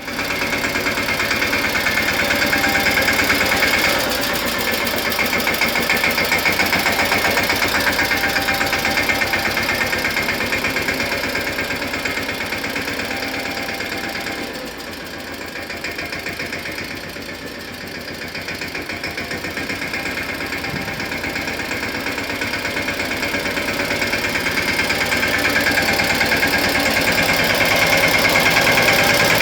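Mahindra Yuvraj 215 NXT mini tractor's single-cylinder diesel engine running with a rapid, even knock. It fades somewhat around the middle and grows louder again near the end.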